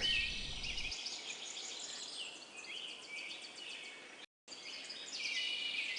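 Outdoor ambience of many small birds chirping and trilling over a faint hiss. The sound cuts out completely for a moment about four seconds in, as at an edit.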